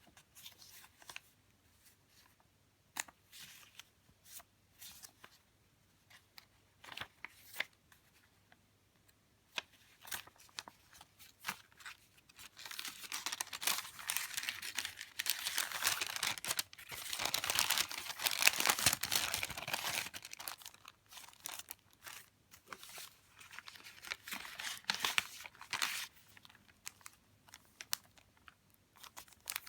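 Paper and plastic sleeves being handled: scattered small clicks and rustles, then from about twelve seconds in a long stretch of dense crinkling lasting about eight seconds, and a shorter spell of crinkling a few seconds later.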